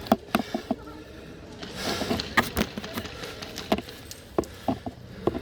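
Scattered sharp clicks and knocks, about ten at irregular intervals: a quick cluster right at the start, then single ones spread through the rest.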